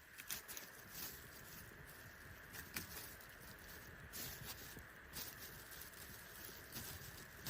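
Wood fire crackling faintly, with scattered sharp pops and ticks at irregular intervals over a steady hiss.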